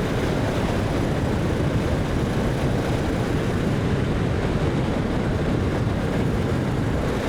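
Kawasaki Vulcan 650 motorcycle riding at a steady speed: engine running under a steady rush of wind noise.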